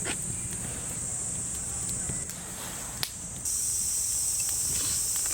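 Insects, likely crickets, trilling in a steady high-pitched chorus that stops briefly about two and a half seconds in and then resumes, over a low rumbling background, with one sharp click near three seconds.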